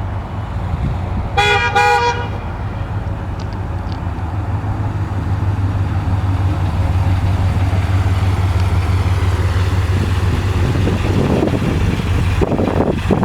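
1993 Dodge Ramcharger's V8 engine running steadily while its horn gives a short honk about a second and a half in. Near the end a rushing noise builds up.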